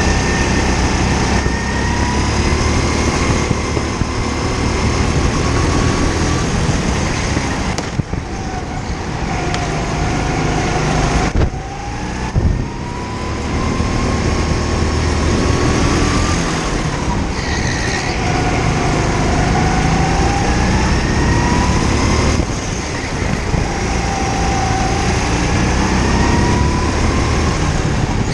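Go-kart engine heard from on board, its pitch climbing steadily as it accelerates and falling back sharply each time the throttle lifts for a corner, several times over.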